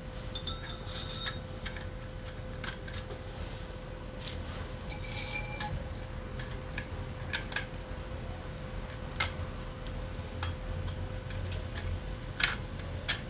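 Scattered light metallic clicks and taps of hand tools and engine parts being handled, with brief ringing clinks about five seconds in and two louder knocks near the end. A steady faint hum runs underneath.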